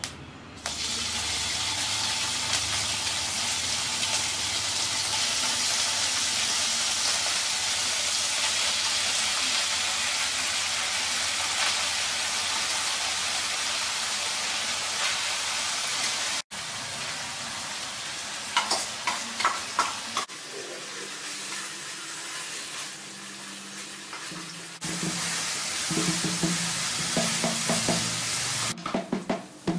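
Crumbled homemade paneer sizzling loudly in hot oil in a nonstick frying pan; about halfway through the sizzle drops off suddenly and turns quieter, with a wooden spatula scraping and stirring the paneer in short strokes.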